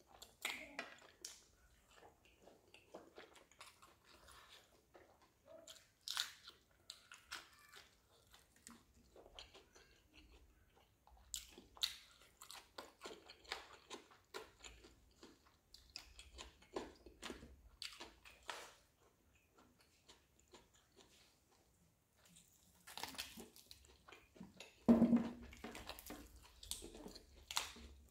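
Close-up eating sounds of roast chicken being bitten and chewed: a run of short wet clicks and smacks, some crisp, with a louder, fuller sound near the end.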